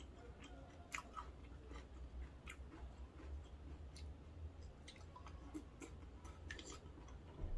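Close-miked chewing of seafood noodles, soft and wet, with a few scattered sharp clicks, over a steady low hum.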